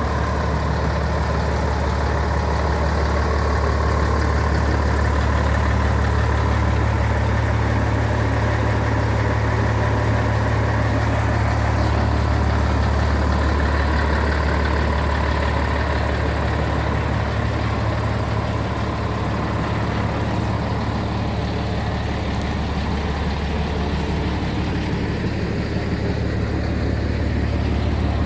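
Scania 111S truck's 11-litre six-cylinder diesel engine running steadily, a deep, even drone that holds the same pitch throughout.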